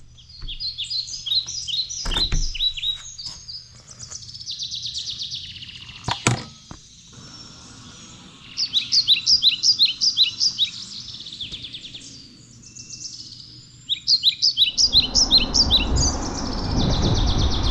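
A songbird singing in three bouts of fast, repeated high chirps. A few sharp clicks sound in the first seven seconds, and about 15 seconds in a steady rushing noise comes in and stays.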